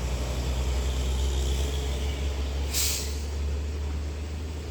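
Heavy diesel truck rumbling low and steady, with one short sharp air-brake hiss a little under three seconds in.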